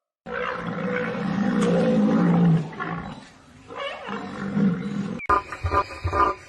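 A large animal's low, drawn-out call, a long one of about two seconds and then a shorter one. After a sudden cut near the end, a different animal calls in quick repeated pulses.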